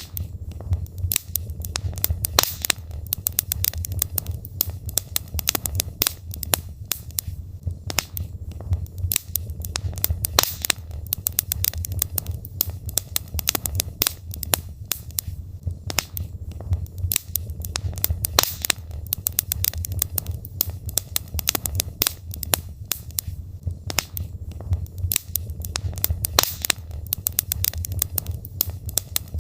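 Wood logs burning in a fireplace: dense, irregular crackles and pops over a low steady rumble.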